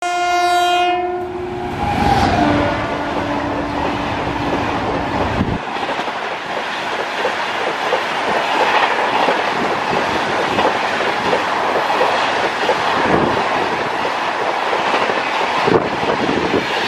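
WAP-7 electric locomotive sounding its horn as it passes, the note dropping to a lower pitch after about two seconds and stopping about five seconds in. Then a long rake of LHB coaches rushes past at speed, with wheels clattering over the rail joints and a sharp knock near the end.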